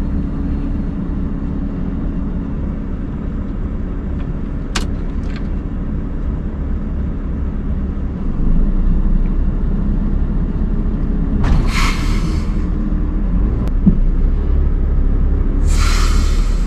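Scania R580 truck's V8 diesel engine running steadily under load, pulling harder about eight seconds in, as the truck works up a snowy climb. Two short hisses come near the middle and at the end.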